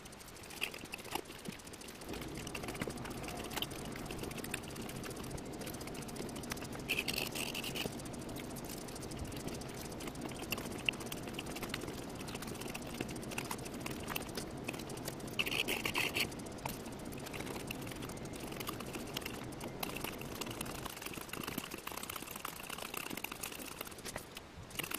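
Faint handling noise of copper magnet wire being wound by hand through the slots of a wooden spider-web coil form, the wire pulled off a spool: light scraping and small ticks over a low steady hum. Two brief higher squeaks come through, about a third of the way in and again past halfway.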